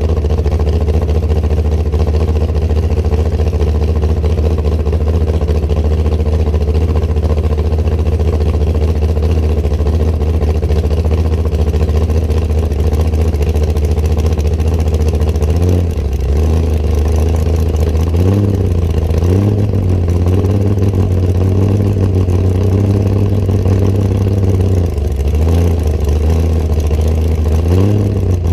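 Hot rod car engine running loud and steady while driving. In the second half the engine note dips and climbs again several times as the driver comes off and back on the throttle.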